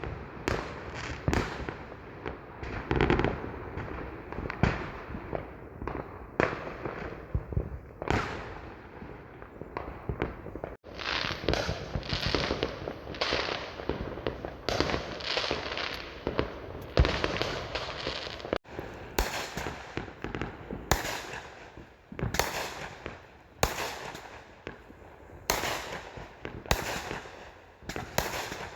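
Fireworks going off in quick succession, with repeated sharp bangs and crackles. In the second half the bangs come in a steady string, a little faster than one a second.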